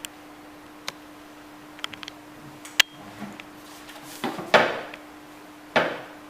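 Sharp clicks and knocks of tableware, a spoon or fork against a plate or tray, with one louder click a little before halfway. Near the end come two short hissing rushes, the second fading away.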